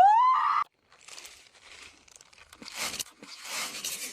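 A short rising cat meow, then scattered bursts of crinkling and rustling.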